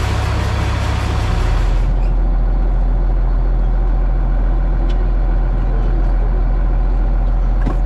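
Heavy farm vehicle engine running steadily with a deep hum. A high hiss over it cuts out about two seconds in, leaving the engine alone.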